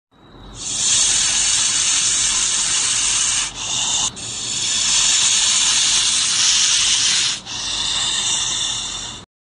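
Rattlesnake's tail rattle buzzing steadily, a dry hiss-like sound that breaks off briefly about three and a half seconds in and again near seven and a half seconds.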